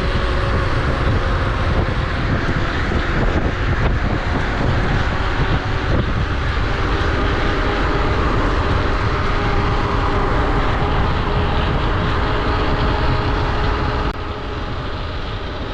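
Riding noise on an electric bike: wind buffeting the microphone and road rumble, with a steady whine over it. The level drops a little near the end.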